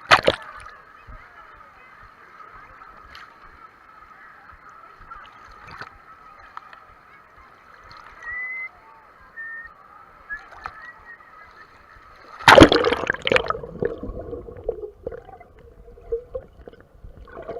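Water sloshing and splashing, muffled through a GoPro's waterproof case. There is a short splash at the start, and a loud splash about twelve seconds in, followed by gurgling.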